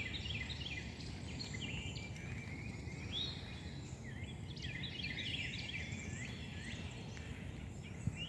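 A flock of small birds chirping and twittering in quick, overlapping calls, over a steady low rumble.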